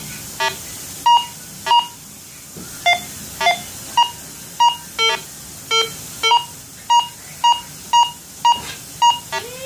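Minelab Go Find 60 metal detector beeping as a silver Barber dime passes the coil at almost 9 inches: short tones about twice a second, mostly one mid pitch with some lower tones mixed in. It is a low-grade signal at that distance.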